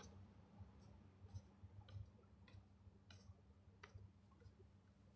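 Near silence with about a dozen faint, irregular clicks scattered through it, over a faint low hum.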